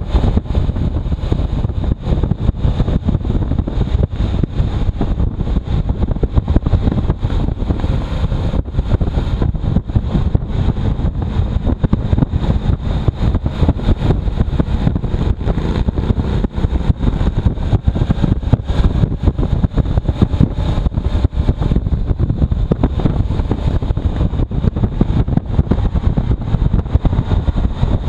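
Wind buffeting the microphone of a moving motorcycle, a loud, fluttering rush over the bike's engine and road noise.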